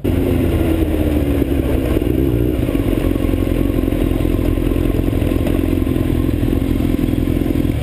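Motorcycle engine running at a steady cruising speed, its pitch wavering briefly about two seconds in, then holding even.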